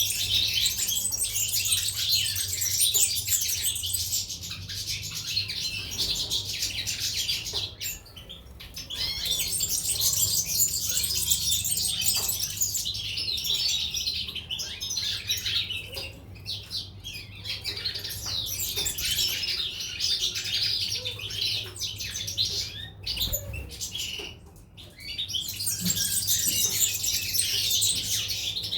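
A group of caged European goldfinches and canaries chirping and twittering continuously, many rapid overlapping calls, with brief lulls about eight seconds in and again near twenty-four seconds.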